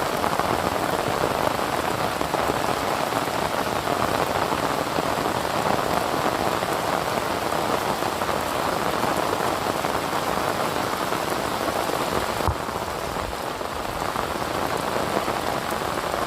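Steady, dense rain falling. About twelve seconds in, the sound turns duller and a little quieter.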